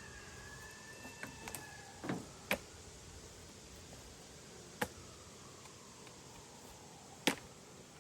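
Scattered sharp clicks and knocks from handling the wooden beehive parts, about four louder ones, the last the loudest, over a faint background. A faint thin high tone is heard in the first two seconds.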